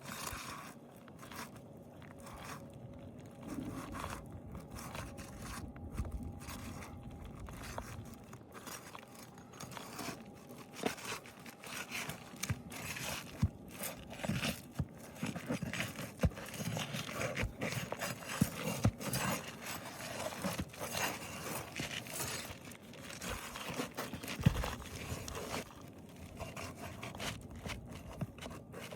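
Asphalt roof shingles scraping and crunching as roofing nails are pried out and a damaged shingle is worked loose, with irregular clicks and knocks. The shingles are brittle.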